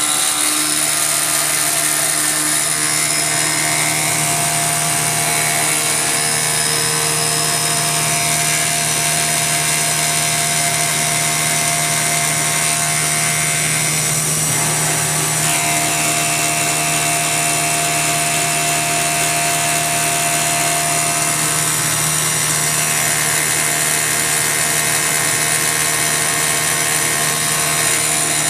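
CNC mill with a belt-drive spindle running steadily while an indexable insert cutter rough-machines a metal part: a continuous hum with steady tones over cutting noise.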